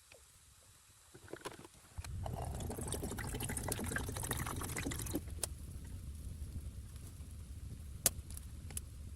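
Liquid pouring for about three seconds over a steady low rumble, with a few sharp clicks and knocks afterwards.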